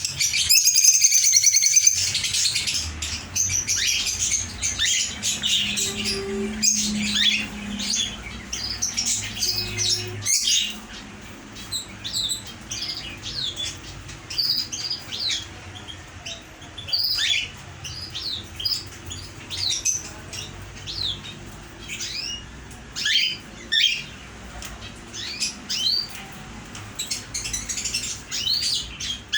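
Many small caged birds chirping and tweeting together, a dense burst of calls in the first two seconds, then scattered chirps.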